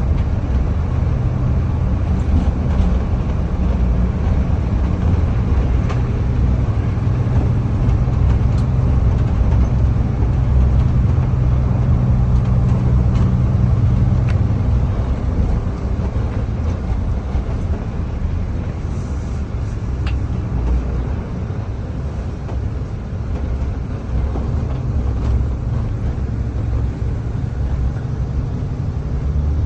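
Steady low rumble of a running vehicle engine with road noise, easing a little about halfway through.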